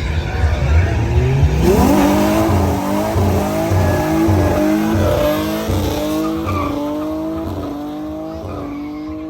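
A car engine revving up hard as the car pulls away. The pitch climbs steeply about a second in, then pulses in short repeated rises while the sound slowly fades as the car moves off.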